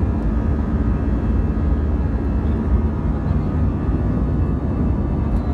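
Steady roar of jet engines and rushing air inside the cabin of an Airbus A321 climbing after take-off, heaviest in the deep low end, with no change in pitch.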